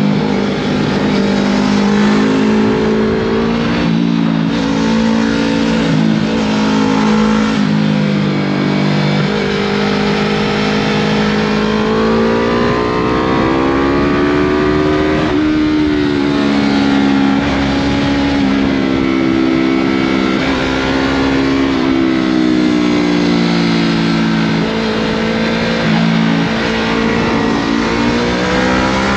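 Yamaha MT-03 motorcycle with a Scorpion full exhaust system running under way, its engine note climbing and dropping repeatedly as the throttle opens and closes and gears change.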